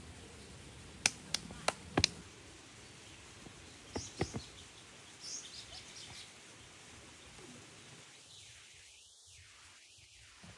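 Four sharp knocks in quick succession, then a few more a couple of seconds later, with short high bird chirps over a faint steady outdoor hush.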